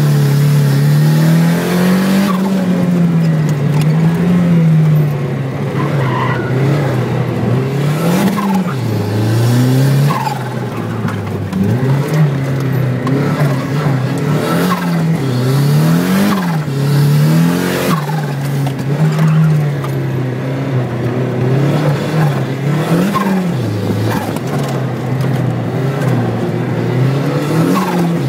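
Speedster Turbo's engine heard from the cabin while being driven hard, revs climbing and falling every couple of seconds through the corners. Brief tyre squeals come in now and then.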